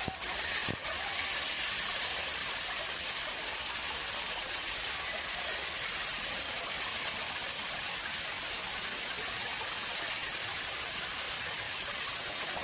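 Water running and splashing steadily into a man-made pond, a continuous rushing hiss. Two brief clicks come in the first second.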